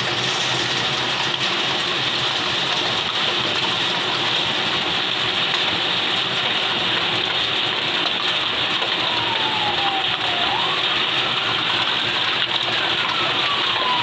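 Steady rushing noise of water. About two-thirds of the way in, an emergency siren wails faintly, falling and rising in pitch.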